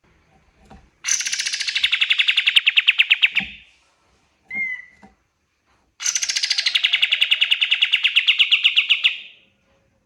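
Kapas tembak bird singing: two long, fast rattling trills of about two and a half seconds each, the first starting about a second in and the second about six seconds in. A short call comes between them.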